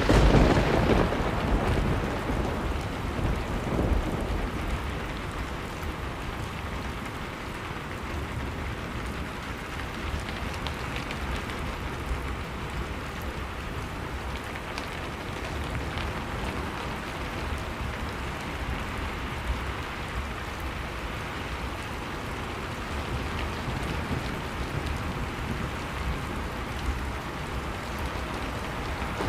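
Storm wind blowing steadily with a deep rumble, mixed with a wood fire crackling in scattered small pops. The wind is louder for the first few seconds, then settles.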